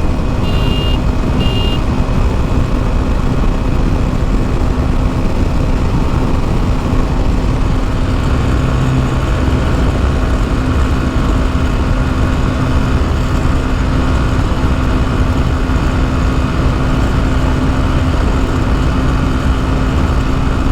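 Motorcycle running at steady cruising speed on a highway, its engine hum buried in a loud, even rush of wind and road noise. Two short high beeps sound in the first couple of seconds.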